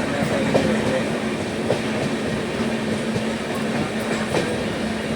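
Passenger train running along the track, heard from inside a coach: a steady rumble and hum of the moving train, with scattered sharp clicks of the wheels over the rails.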